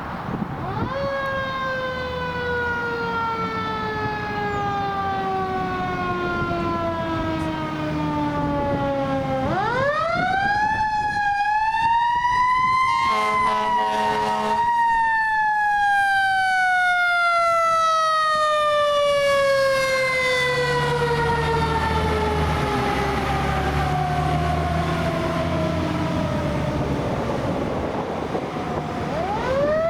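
Fire apparatus mechanical siren winding up quickly and then coasting slowly down in pitch, three times over, with a short air horn blast about 13 seconds in. A low truck engine rumble runs underneath.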